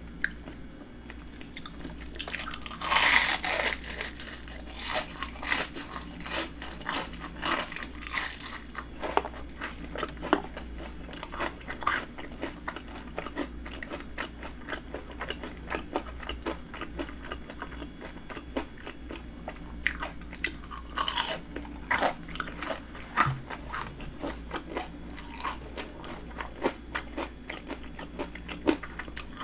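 Crunching bites into breaded deep-fried shrimp, followed by chewing. There is a loud crunchy bite about three seconds in and another around two-thirds of the way through, with many small chewing crunches between.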